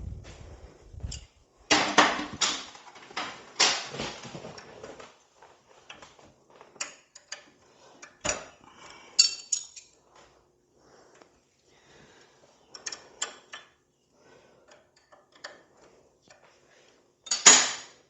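Metal hand tools clinking and clattering in irregular knocks, busiest in the first few seconds, with one louder metallic clatter near the end.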